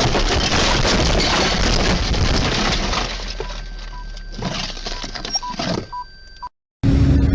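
Car crash: loud crunching and breaking for about three seconds, then quieter knocks and a few short beeps. A cut near the end gives way to steady vehicle road noise.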